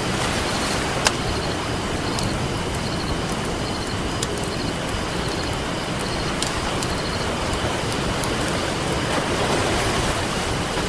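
Steady wash of ocean surf under a crackling campfire, with a few sharp wood pops, the loudest about a second in, and the surf swelling a little near the end.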